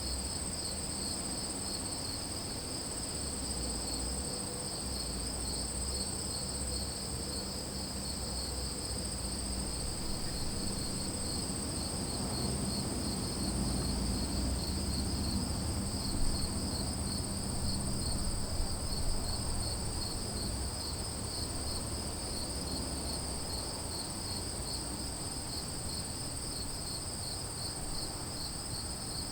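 Crickets and other insects calling together in a night-time-style chorus: one unbroken high-pitched trill over a lower chorus that pulses in an even rhythm. A faint low rumble sits underneath, swelling a little about halfway through.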